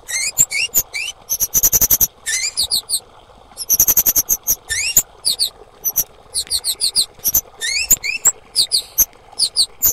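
Female kemade calling: rapid, high-pitched chirps and short rising notes in quick clusters, with bursts of fast repeated notes, the calls used to provoke male kemade to sing.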